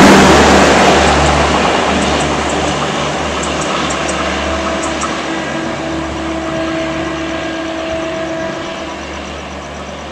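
Garib Rath express train's last coaches rushing past at speed, then the rumble of its wheels on the rails fading steadily as it draws away down the line.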